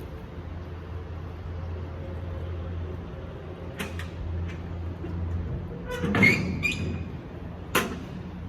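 A few knocks and a clattering bang with a brief squeak, over a steady low engine hum.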